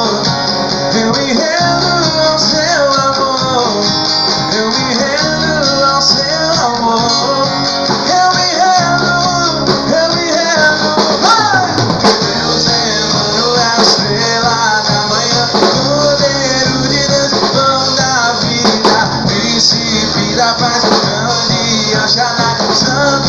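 Band playing a rock-style song, with guitar and a melodic line that glides up and down, likely a voice singing.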